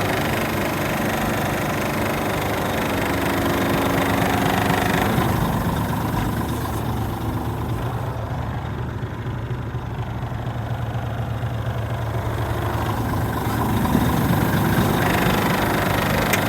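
Scania R450 truck's 13-litre inline-six diesel engine idling steadily. Its higher sounds fade in the middle and come back near the end.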